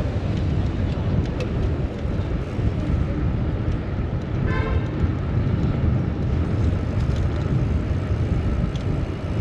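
City street traffic noise heard from a moving bicycle, with wind rumbling heavily on the microphone. A short pitched tone sounds briefly about halfway through.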